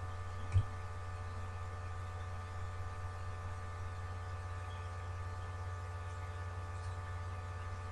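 Steady electrical mains hum with a faint constant whine above it, and one short low thump about half a second in.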